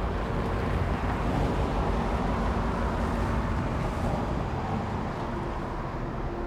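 GP9 diesel locomotive's two-stroke V16 engine running with a steady low rumble, easing off slowly toward the end.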